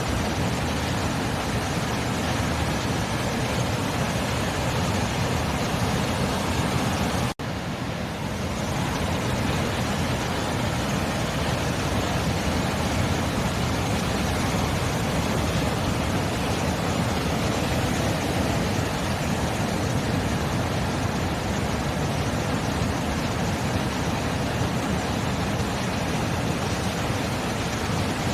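Sea surf, a steady unbroken rush of waves with no distinct breakers standing out. It cuts out for an instant about seven seconds in, then carries on the same.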